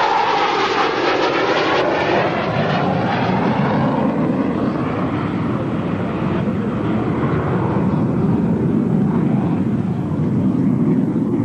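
Airplane passing overhead: its engine sound sweeps down in pitch over the first few seconds as it goes by, then settles into a steady rumble.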